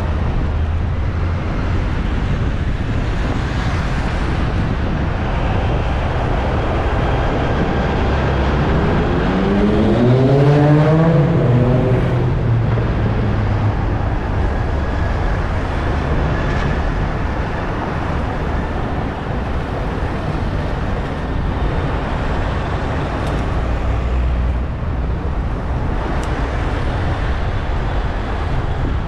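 Steady wind and road rumble on a bicycle-mounted GoPro riding through city traffic. A motor vehicle's engine revs up as it passes about ten seconds in, its pitch rising over a few seconds before fading back into the traffic noise.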